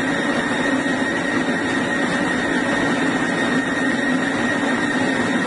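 Built-in coffee grinder of a grind-and-brew drip coffee maker running, grinding beans for the brew. It makes a loud, steady motor whine over a grinding noise.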